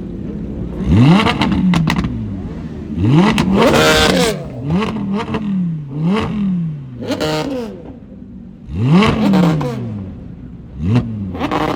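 A car engine being free-revved at a standstill: about eight sharp throttle blips, each climbing quickly in pitch and falling back toward idle, with a quick run of short blips in the middle.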